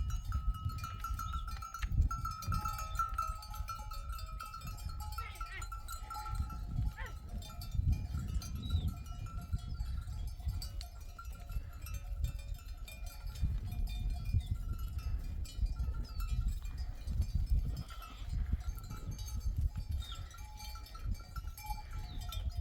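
A grazing flock of sheep with bells around their necks: the bells jingle and ring while sheep bleat now and then. A gusty low rumble of wind on the microphone runs underneath.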